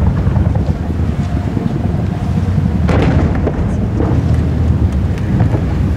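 Aerial firework shells bursting: a continuous low rumble of booms, with sharper cracks about three seconds and four seconds in.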